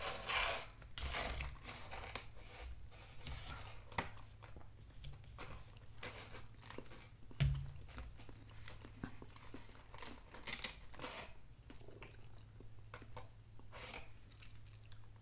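Quiet chewing mixed with the crinkle of a plastic food bag being handled, short clicks and crackles scattered through, with one dull thump about seven and a half seconds in.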